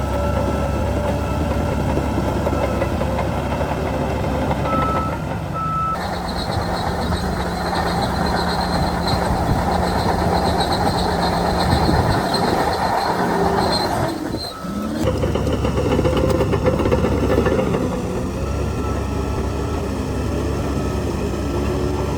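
Heavy diesel earthmoving machinery running steadily, its engine note changing abruptly about six seconds in and again near fourteen seconds.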